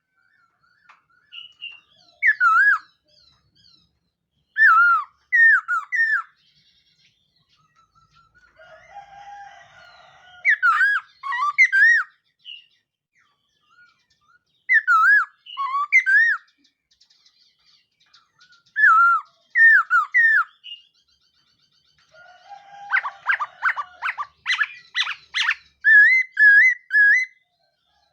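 Laughingthrush singing: short phrases of three or four looping whistled notes, repeated every few seconds, with a quick run of harsh rattling notes near the end.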